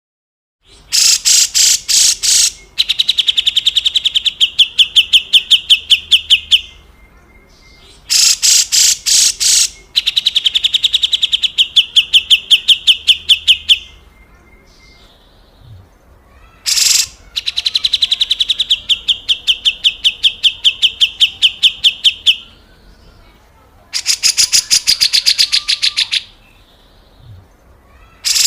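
Grey-cheeked bulbul (cucak jenggot) giving its harsh, rasping call: repeated bouts of a few seconds each, every bout opening with several loud coarse notes and running into a fast rattling series, with short pauses between bouts.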